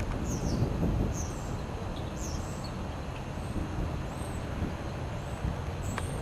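Small birds chirping in short repeated calls over a steady low rumble, with a single sharp click near the end.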